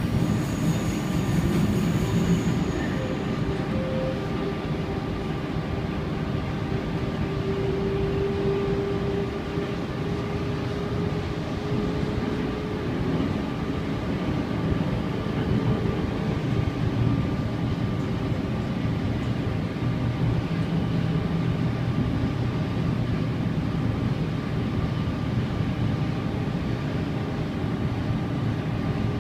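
Cabin running noise of a Sydney Trains C-set double-deck electric train moving along the track: a steady rumble of wheels and running gear. A higher tone comes and goes about a third of the way through.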